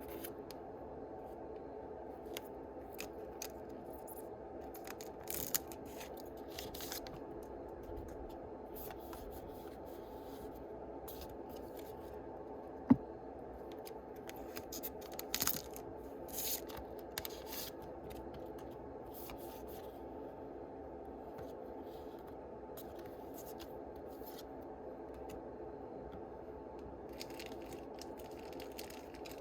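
Yu-Gi-Oh! booster packs being opened and the cards handled: scattered crinkles, rustles and scrapes of foil wrappers and card stock over a steady background hum, with one sharp click about halfway through.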